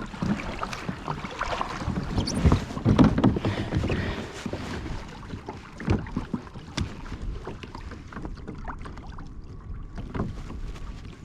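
Kayak paddle strokes splashing in the water, with scattered short knocks and wind on the microphone; busier and louder in the first half.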